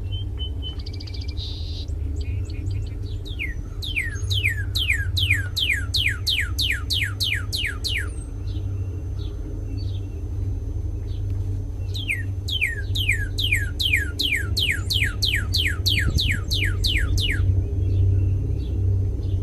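A northern cardinal singing two long phrases of rapid down-slurred whistles, about four a second, each sliding from high to low. A steady low hum runs underneath.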